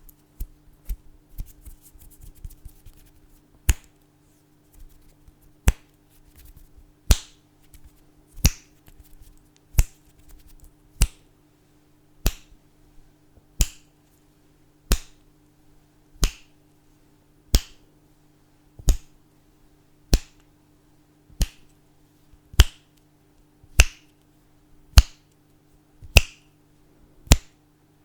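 Fingers snapping close to the microphone, single sharp snaps at an even, unhurried pace of about one every second and a quarter. For the first few seconds there are only soft rustles and faint clicks before the regular snapping starts.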